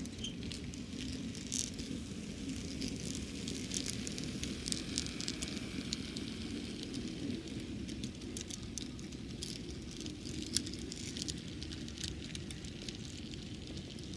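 Arnold N scale U28c model diesel locomotive running past with a long train of freight cars: a low motor hum, strongest in the first half while the locomotive goes by, under many small clicks and rattles of the wheels over the track as the cars roll past.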